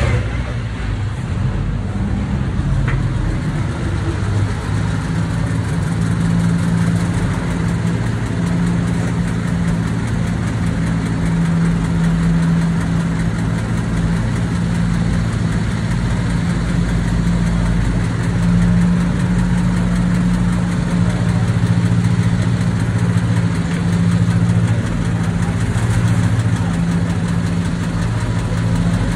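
Early Cadillac touring car's engine idling at a steady low pitch.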